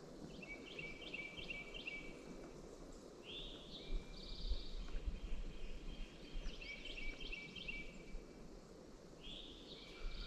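Songbirds singing in short repeated chirping phrases over a steady low rumble of wind on the microphone.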